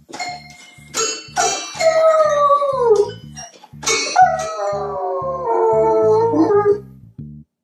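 A dog howling: a few short calls, then two long howls that slide down in pitch, the second one longer. Background music with a steady low beat runs underneath.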